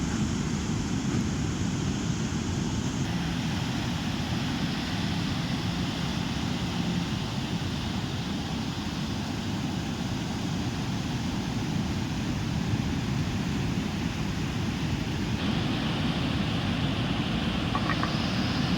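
Steady roar of heavy surf breaking at a river mouth, with wind rumbling on the microphone.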